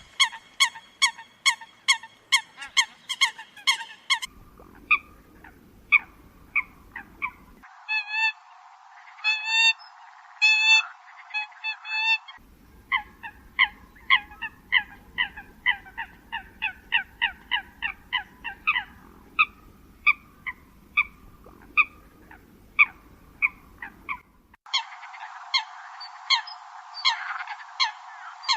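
Eurasian coot calls: a long run of short, sharp, honking notes repeated about two to three times a second. Several recordings are spliced together, so the background changes abruptly a few times.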